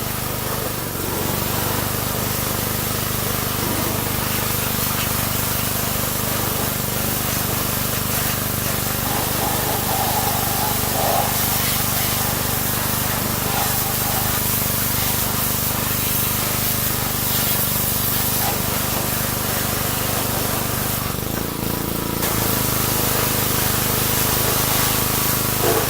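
Pressure washer spraying water: a steady hiss over a steady machine hum. The spray stops briefly a little over twenty seconds in, then resumes.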